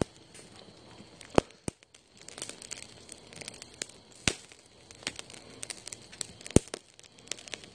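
Wood fire crackling under a grilling fish: scattered sharp pops over a faint hiss, with a few louder pops spread through.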